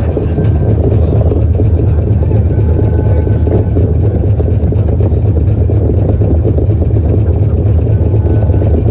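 Streetcar running along its tracks: a loud, steady low rumble with a continuous rattle, and a faint thin whine coming and going.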